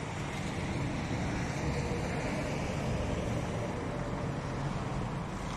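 Volkswagen Polo's engine running at low revs as the car reverses slowly into a parallel parking space, heard as a steady low rumble.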